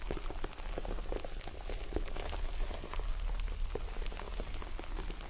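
ASMR demonstration sounds: scattered light ticks and taps pattering irregularly, rain-like, over a low steady hum.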